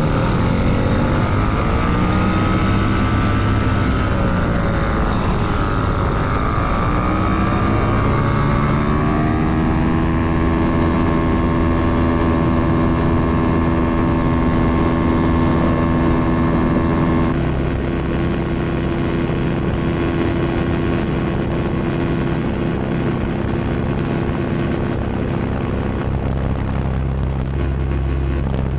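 Sky Pup ultralight aircraft's small propeller engine running. Its pitch rises and falls for the first several seconds, then holds steady. The sound changes abruptly partway through, and the engine then drones on at a steady pitch with wind noise.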